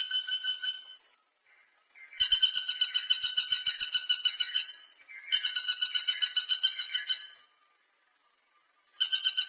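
Woodpecker calling: a rapid rattling series of high, clear notes, about eight to nine a second, repeated in bouts of two to three seconds with short pauses between.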